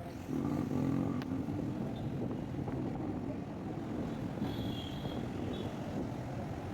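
Steady road traffic noise, with a short pitched tone about half a second in and a brief higher-pitched tone past the middle.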